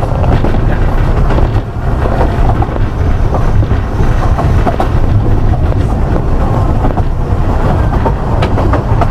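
Ride noise aboard a narrow-gauge Ffestiniog Railway train on the move: a steady, loud rumble of the carriage wheels on the track, with brief squeaks and an occasional click.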